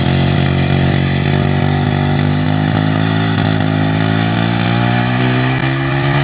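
Motorcycle engine running steadily at a constant speed while rigged to drive a tubewell pump, its pitch drifting slightly up.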